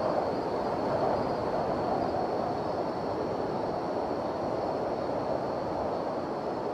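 Blizzard wind blowing steadily, a continuous rushing noise that swells and eases gently.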